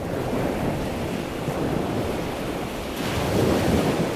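Wind noise on the microphone over open sea, mixed with the wash of water; it rises a little about three seconds in.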